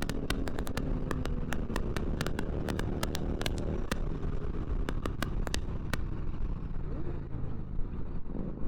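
A motorcycle running on the road, with a steady low rumble.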